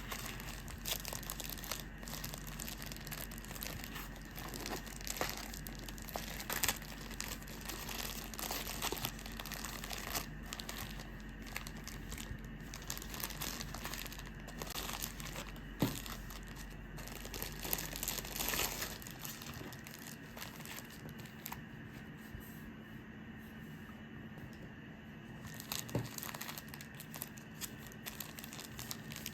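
Irregular crinkling and rustling with scattered sharp crackles, as of a thin crinkly material being handled. Under it runs a low steady hum that stops about two-thirds of the way through.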